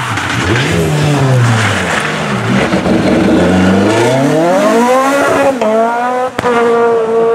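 Renault Clio III rally car's engine revving hard, its pitch falling and rising as it brakes and changes down for a corner. It then climbs steadily as the car accelerates away, with an upshift about five and a half seconds in, and runs at high revs near the end.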